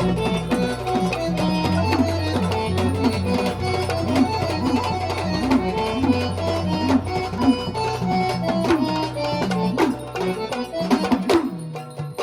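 Instrumental passage of a Marathi devotional folk song: a tabla-type hand drum keeps a steady rhythm with deep sliding bass strokes under a melody instrument and a held low note. The music thins out briefly near the end.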